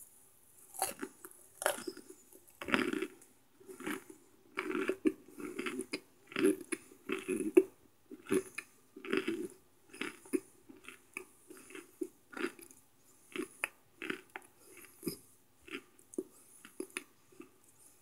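Microwaved cornstarch chunks being chewed close to the microphone: a steady run of dry crunches, one or two a second. The crunches are loudest in the first half and lighter and more spaced out later on.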